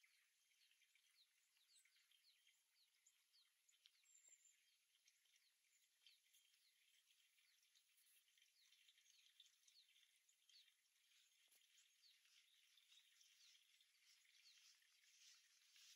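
Very faint distant birdsong: many short, high chirps overlapping, growing a little busier toward the end.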